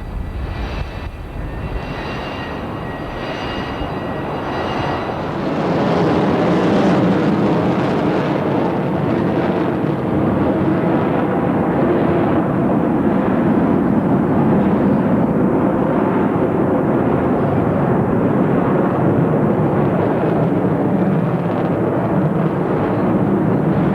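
A B-1B Lancer's four General Electric F101 turbofans, heard as a jet roar with a faint high whine in the first few seconds. About five seconds in the roar swells and then holds loud and steady as the bomber passes.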